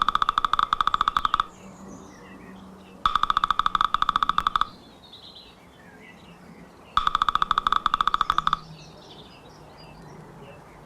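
Woodpecker drumming on wood: three bursts of very rapid, evenly spaced pecks, each about a second and a half long, a couple of seconds apart. Other birds chirp faintly between the bursts.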